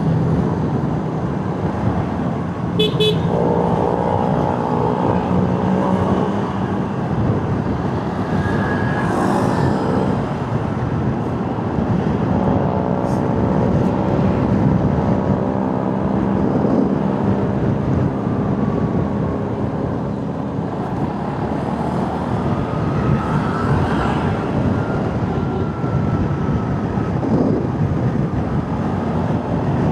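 Riding a motorcycle in city traffic: the engine runs steadily under road and wind noise from surrounding cars and trucks. Vehicle horns sound a few times, with longer honks a few seconds in and again about halfway through.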